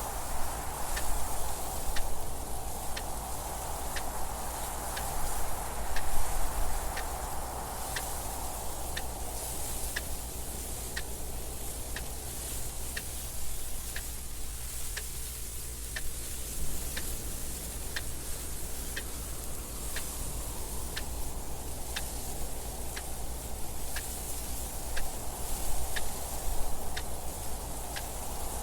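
Clock ticking evenly, about once a second, over steady wind noise with a low rumble; the wind swells in a few gusts.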